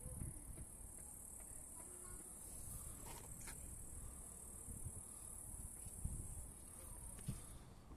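A faint, steady high-pitched buzz, with a few soft low thumps and knocks.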